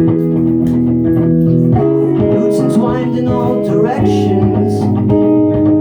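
Live electric guitar music, a Fender Jazzmaster played through a loop station: picked notes over sustained, looped chords and low bass notes, with no vocals.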